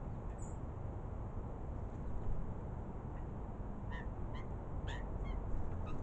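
A bird calling in short notes, about five in quick succession over the last two seconds, over a steady low background rumble.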